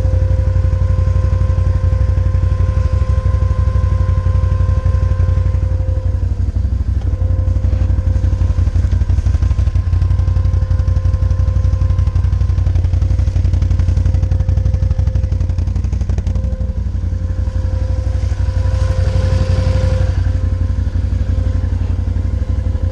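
Can-Am Outlander ATV running steadily: a low engine rumble with a steady high whine over it. This is a new, strange noise whose cause the owner does not know.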